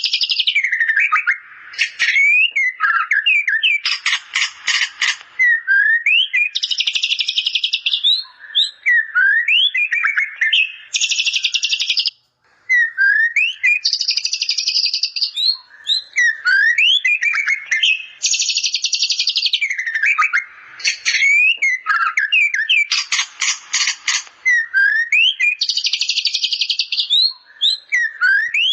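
White-rumped shama (murai batu) singing a song filled with bar-winged prinia (ciblek) imitations. Short rising whistled notes alternate every few seconds with dense, rapid buzzy trills, and the phrases repeat over and over.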